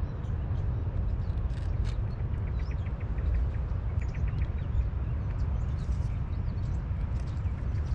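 Small birds chirping in short quick trills over a steady low rumble.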